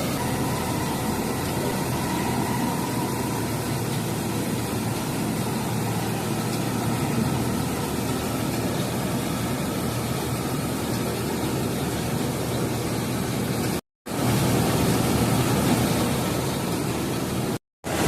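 A steady engine running, cut twice by brief dropouts to silence near the end.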